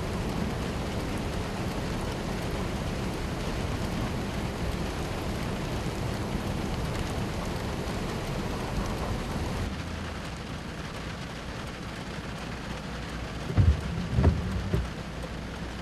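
Heavy plum-rain downpour, a steady hiss of rain. About ten seconds in it drops somewhat quieter, and near the end a few loud low thumps stand out.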